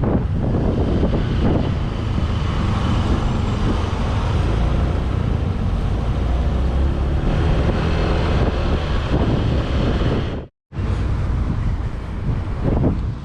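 Strong wind buffeting the microphone over a 2018 Honda PCX150 scooter's single-cylinder engine running at road speed. The sound cuts out completely for a moment about ten seconds in.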